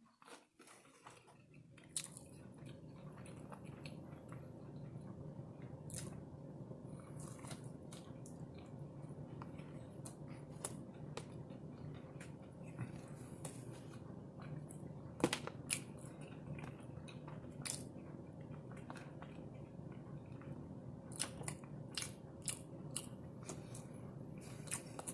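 A person eating close to the microphone: chewing and biting with scattered wet mouth clicks. Under it runs a steady low hum that starts about two seconds in.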